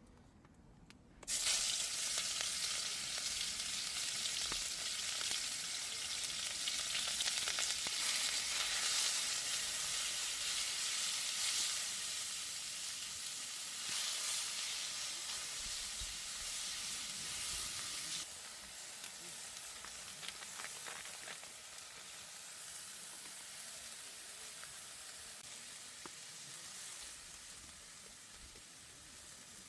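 Food hitting a hot oiled wok over a campfire: a loud sizzle starts suddenly about a second in, keeps frying steadily, and slowly dies down over the second half.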